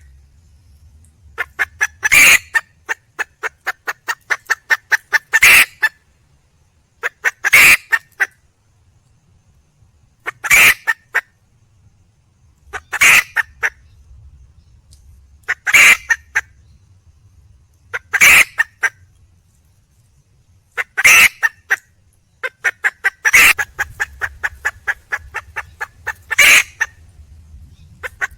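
Red junglefowl hen calling for a mate: runs of quick short clucks that build into a loud squawking call, repeated about every two and a half seconds, some ten times in all.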